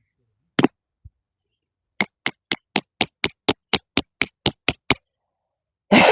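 A rock striking the head of a tarp stake, driving it into the ground: one blow, then a quick run of about a dozen even blows at roughly four a second.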